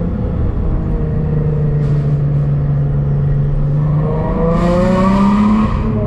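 Nissan 350Z's 3.5-litre V6 engine and exhaust running steadily at cruise, then revving up with a rising pitch about four seconds in.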